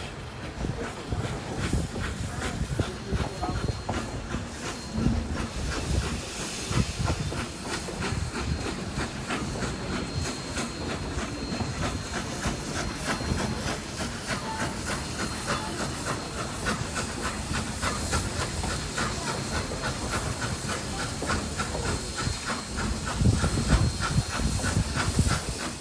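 Narrow-gauge steam locomotive running, steam hissing steadily over a fast, regular beat of clicks and a low rumble that grows louder near the end.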